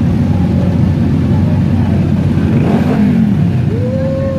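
Motorcycle engines running with a loud, steady low rumble, one revving up in pitch about two and a half seconds in and another near the end.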